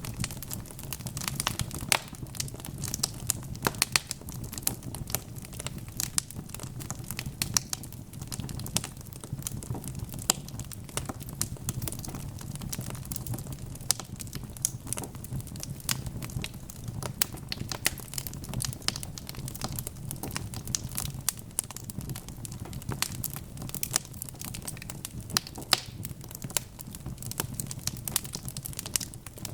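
Fire in a fireplace crackling: dense, irregular sharp pops and snaps over a steady low rumble of the flames.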